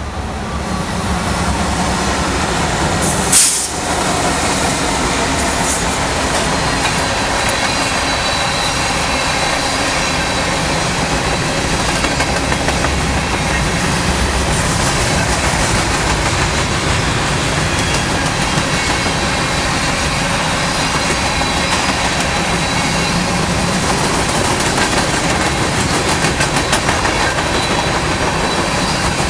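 Norfolk Southern freight train of empty grain hopper cars rolling past, a steady rumble and clatter of wheels on rail with a faint high wheel squeal. There is one sharp, loud bang about three and a half seconds in.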